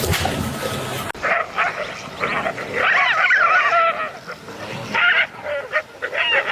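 An animal's high-pitched whining and yelping calls, repeated and wavering up and down in pitch, starting about a second in after an abrupt change from a noisy sound.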